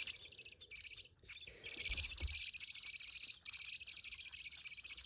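Baby robins begging to be fed: a fast, continuous stream of high-pitched cheeping that breaks off briefly near the start and then rises to a dense chorus from about a second and a half in.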